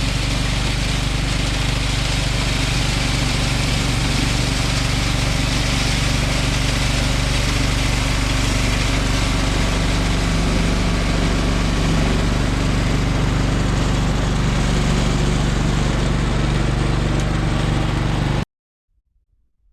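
John Deere 185 lawn tractor's 17-horsepower Kawasaki engine running steadily, driving a 38-inch single-stage snowblower. It cuts off suddenly near the end.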